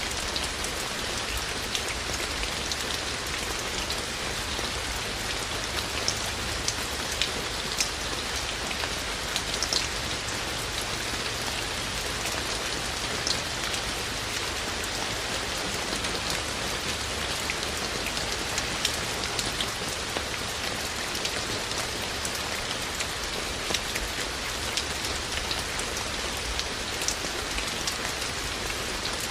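Steady rain falling, a dense even hiss with many separate drops ticking sharply on hard surfaces.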